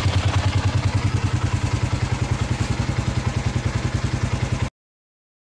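Yamaha Sniper 150's single-cylinder four-stroke engine idling with an even, steady pulse, its idle speed just raised to stop hard starting and stalling. The sound cuts off suddenly near the end.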